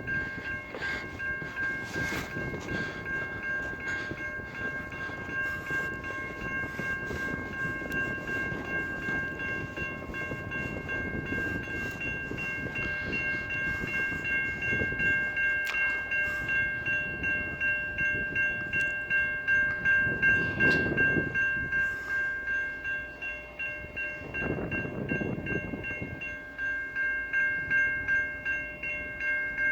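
Railway crossing warning bell ringing continuously in a quick, regular rhythm on a malfunctioning crossing that is activated with no train approaching. Two rushes of passing traffic come through about two-thirds of the way in.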